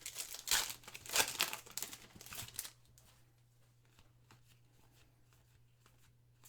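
Foil wrapper of a trading card pack torn open and crinkled for about two and a half seconds, then faint light ticks of cards being handled.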